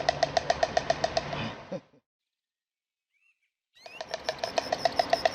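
Stork clattering its bill: a rapid, even rattle of about ten knocks a second. It stops about two seconds in and starts again about four seconds in.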